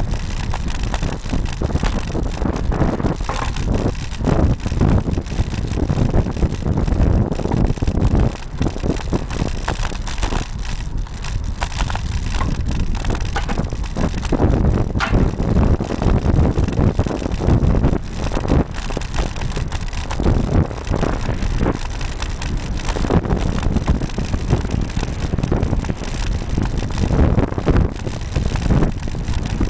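Riding noise picked up by a camera mounted on a Cannondale R900 road bike: wind rushing over the microphone with constant jolts and rattles from the road, loud and unbroken.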